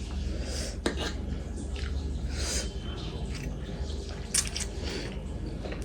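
A person chewing food close to the microphone, with irregular wet smacking sounds and two sharp clicks, one about a second in and one near the end, over a steady low hum.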